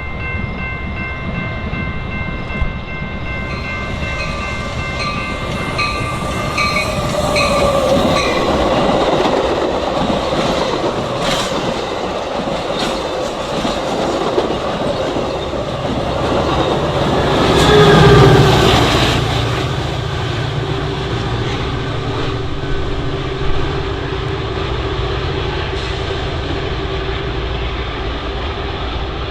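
A train going past at speed, its wheels clattering on the rails and loudest a little past the middle, as a fast commuter express does. A horn sounds over the first several seconds and breaks into short blasts before it stops.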